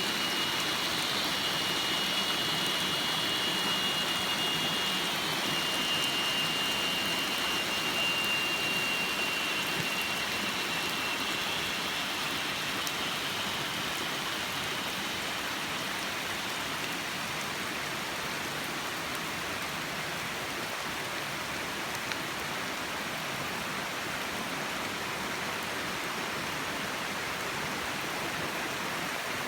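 Loud, steady rain falling, an even dense hiss throughout, with a thin high steady whine over it for roughly the first ten seconds.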